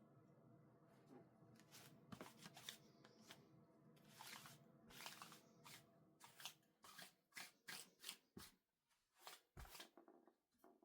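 Clothes rustling and swishing as laundry is handled and folded: a series of short, soft strokes that space out toward the end, with a couple of soft thuds near the end.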